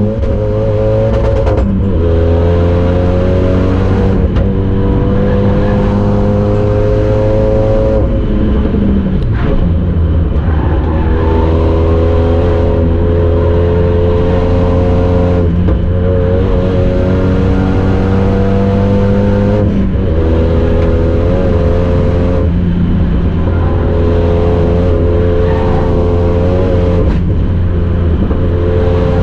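Renault Mégane 3 RS Trophy 265's turbocharged 2.0-litre four-cylinder engine running under load on track, heard from inside its stripped, roll-caged cabin. The note holds fairly steady with small rises and breaks off briefly many times, every few seconds.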